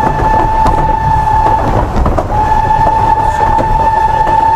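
Steam locomotive whistle sounded in two long, steady blasts with a short break between them, over the rumble and clatter of the train running on the rails.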